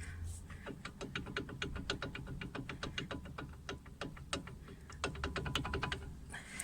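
Lada Granta brake caliper being rocked back and forth, knocking rapidly several times a second: play in the caliper, the owner's suspected cause of its rattle over bumps.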